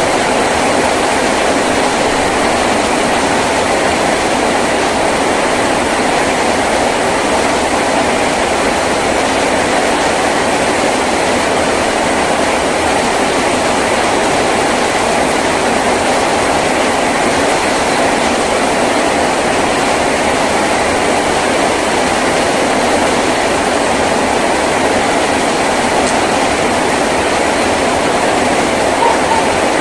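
Heavy rain drumming steadily on a tin roof, a dense even roar with no let-up.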